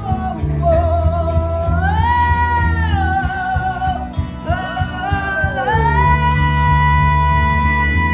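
A singer belts a wordless vocal run over steady guitar chords. The voice holds long notes, slides up and back down, breaks off briefly, then climbs to a long high held note near the end.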